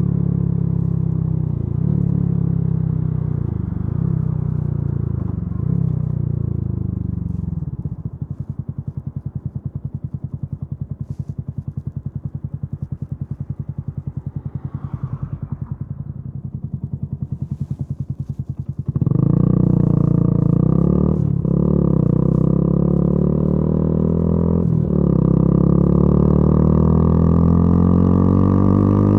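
Yamaha YZF-R125's single-cylinder four-stroke engine through a modified exhaust, accelerating with its pitch climbing and dropping back at each gear change. About eight seconds in it falls to a quieter, slow, evenly pulsing idle or coast. A few seconds before the end it pulls hard again, louder, climbing and shifting up twice more.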